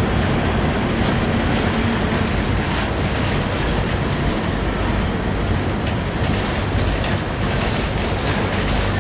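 Freight train of refrigerated boxcars rolling past, a loud, steady rumble of steel wheels on rail.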